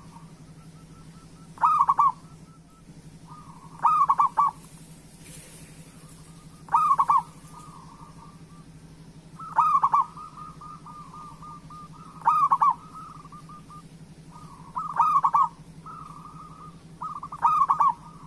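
Zebra dove (perkutut) cooing in repeated phrases, seven times at about two-and-a-half-second intervals: each phrase a quick run of loud coos trailing into a softer trill. A steady low hum lies underneath.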